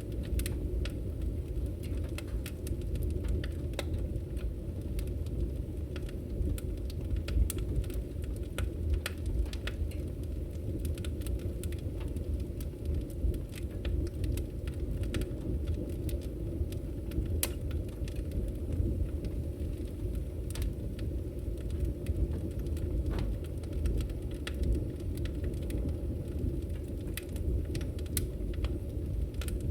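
Wood fire burning: a steady low rumble with frequent irregular sharp crackles and pops from the burning logs.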